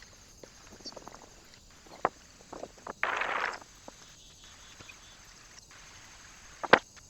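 Animals at a bird feeder: scattered light taps and clicks, with a short rustle about three seconds in.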